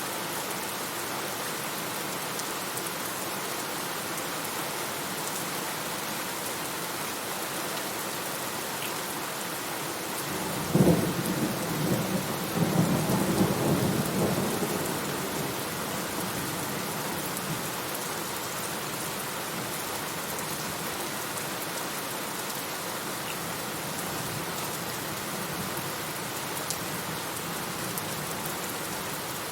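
Steady rain falling, with a clap of thunder about a third of the way in: a sharp crack followed by a rumble that rolls on for a few seconds and fades back under the rain.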